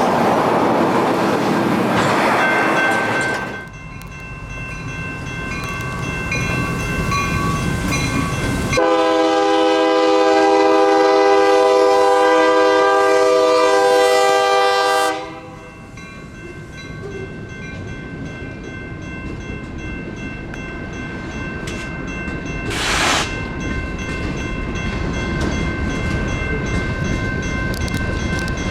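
Light rail train horn sounding one long blast of about six seconds, over the steady ringing of railroad crossing warning bells. Train noise fades away in the opening seconds and builds again toward the end, with a brief hiss in between.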